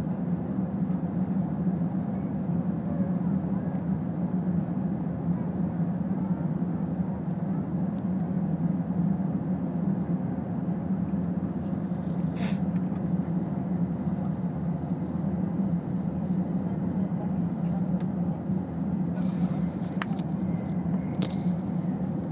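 Steady hum of an airliner's engines heard inside the passenger cabin during takeoff, with a few brief clicks in the second half.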